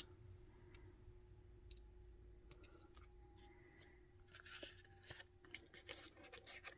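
Near silence: room tone with a faint steady hum, broken by small clicks and soft rustles of hands working a needle and thread through a paper tag, a little busier about four to five seconds in.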